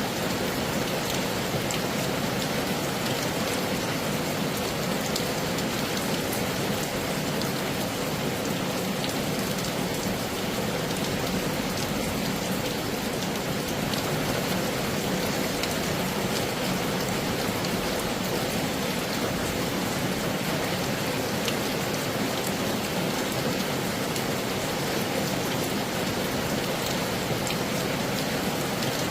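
Heavy rain falling steadily: a dense, even hiss peppered with countless small drop hits.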